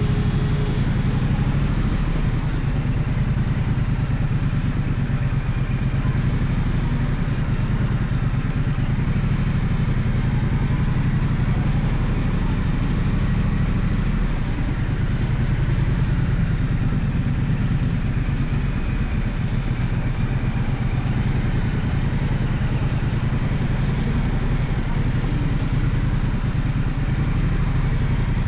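Gaokin GK1200 motorcycle engine running steadily as the bike is ridden, at a fairly even pace with no big revs.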